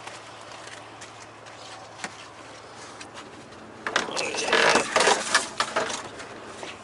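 Clattering and rattling of junk being handled as a pan is picked up out of the trash. It lasts about two seconds, starting about four seconds in, after a stretch of steady low background noise with a few faint clicks.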